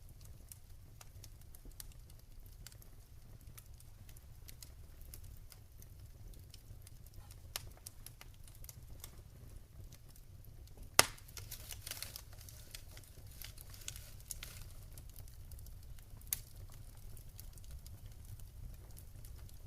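Wood fire crackling in a fireplace: irregular small snaps and ticks, with one loud sharp pop about halfway through and a smaller one a few seconds later, over a steady low rumble.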